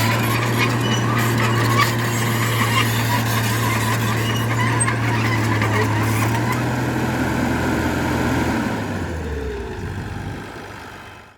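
Heavy earthmoving machine's diesel engine running steadily with light clatter. About two-thirds of the way through its pitch drops and the sound fades away.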